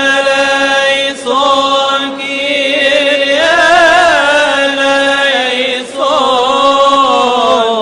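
A man's solo voice chanting a long melisma in Coptic liturgical style: held, drawn-out notes that step and slide between pitches, broken by short breaths. About halfway through the notes waver and ornament before settling again.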